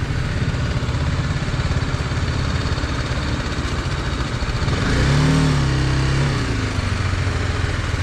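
Motorcycle engine running on the move, under a steady rushing noise. About five seconds in, the engine pitch climbs and then drops back.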